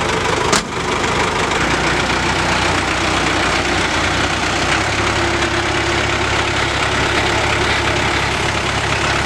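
A Willys military truck's four-cylinder diesel engine running, with one sharp click about half a second in. The engine note deepens and steadies about one and a half seconds in, as the truck gets ready to move off.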